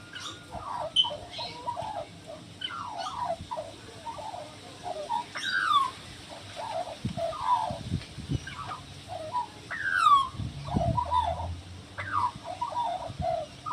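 A bird singing a long run of fluty, warbling notes, many of them sliding downward in pitch, with a few low bumps in the middle.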